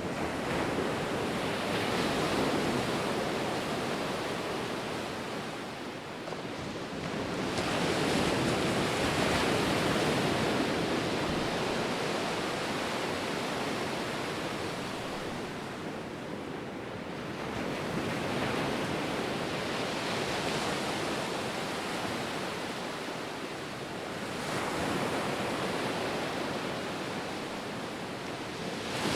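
Ocean surf, waves breaking and washing in. Each surge of hissing water swells and fades, several times over, about every six to ten seconds.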